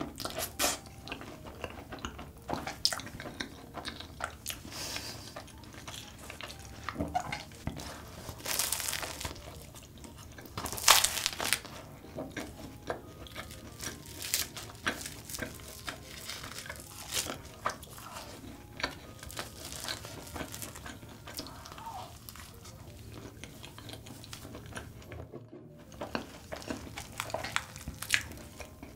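Close-miked eating of giant choux cream puffs drizzled with Nutella chocolate: wet chewing and soft crunching bites of the pastry shell, with many short crackly clicks and the loudest crackly burst about eleven seconds in.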